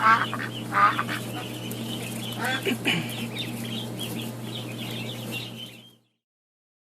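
Ducks quacking, a few loud calls in the first three seconds, over steady high chirping of small birds and a low hum. The sound cuts off about six seconds in.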